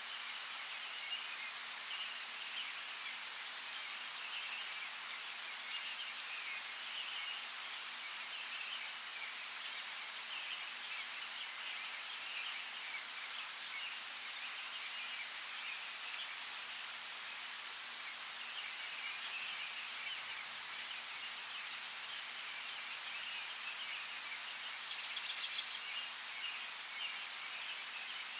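Steady light rain with scattered drip clicks and birds chirping throughout. About 25 seconds in, a bird gives a rapid high trill of about a dozen notes, the loudest sound.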